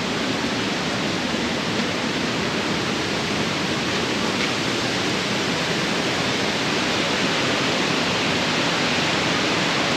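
Mae Sa Waterfall's cascades: falling water making a steady, even rush that does not change.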